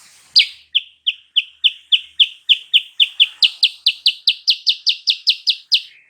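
Kutilang sutra singing a long series of about twenty identical sharp, high downslurred notes, about four a second, speeding up and growing slightly louder toward the end.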